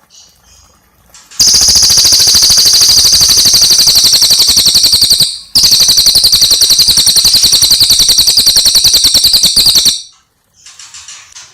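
Small caged songbird singing a loud, very fast rolling trill in two long runs of about four seconds each, broken by a brief pause about halfway. Softer chirps come before and after.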